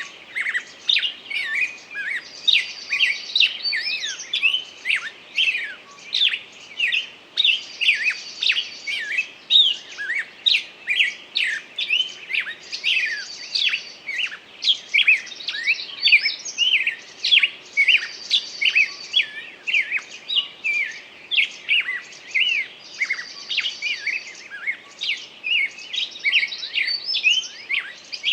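Songbird singing: a continuous stream of rapid, sharp chirps and whistles, broken about every five seconds by a short high trill.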